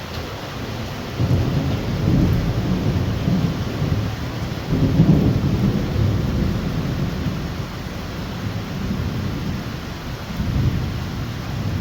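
Heavy rain falling steadily while thunder rumbles in long low swells, building about a second in, loudest around the middle and swelling again near the end.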